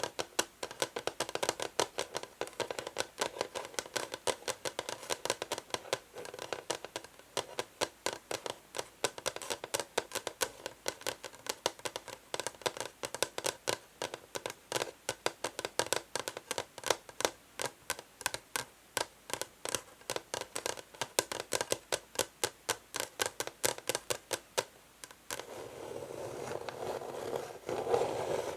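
Fingernails tapping rapidly on an old wooden chess board, a steady run of sharp clicks. A few seconds before the end the tapping stops and gives way to continuous nail scratching on the wood.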